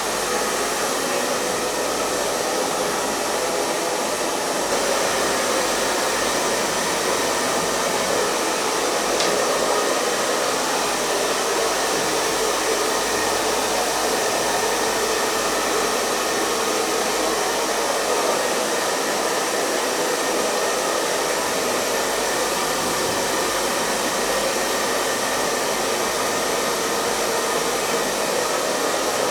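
Hair dryer running steadily, giving a continuous, even blowing noise.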